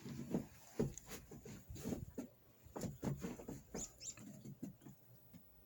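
Irregular soft crunches and rustles, several a second, with a few short high chirps about four seconds in.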